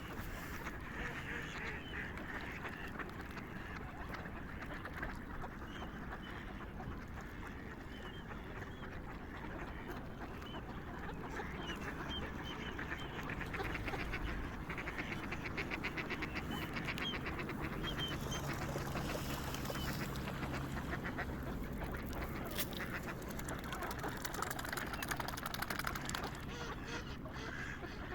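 A flock of swans and other waterfowl calling continuously, with many overlapping calls. The din grows a little louder about halfway through.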